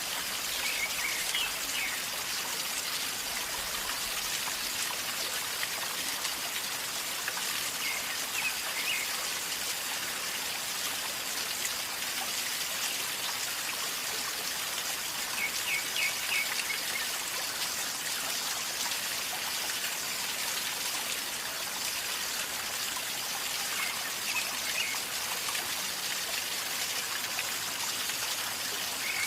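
River water flowing and gurgling steadily. Short high chirps recur about every eight seconds.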